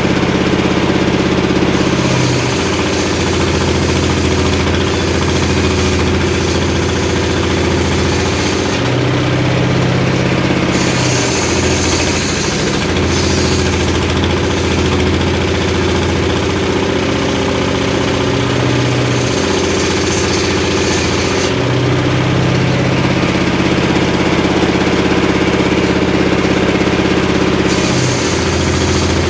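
Engine-driven homemade circular sawmill ripping short timber: the engine runs steadily, its note dropping under load with a hissing cut noise while the blade goes through the wood, and rising again when the blade runs free, several times over.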